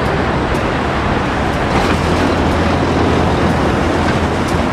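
Steady rush of running water, with a low rumble underneath, as a muddy toy tow truck is rinsed clean.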